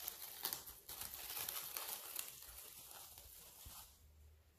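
Faint rustling of plastic cling film with a few light clicks as it is stretched over a bowl of pizza dough, fading out near the end.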